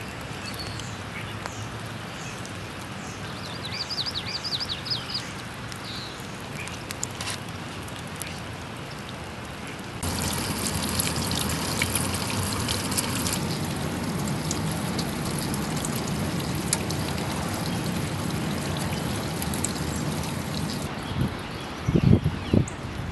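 Thunderstorm rain falling and water pouring and trickling off the house. The rain gets heavier about ten seconds in. A short run of high chirps comes around four seconds, and a few low knocks come near the end.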